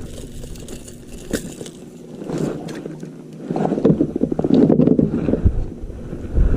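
Handling noise on a kayak: a few sharp knocks, then a dense, crackling scrape building up about halfway through.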